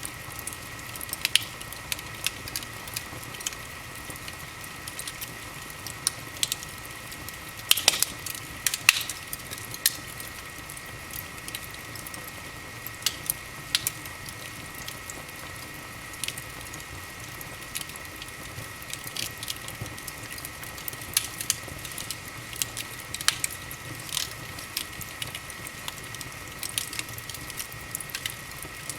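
Wood fire in a fireplace crackling: irregular pops and snaps over a steady hiss, with a cluster of louder pops about eight to nine seconds in. A faint steady high tone runs underneath.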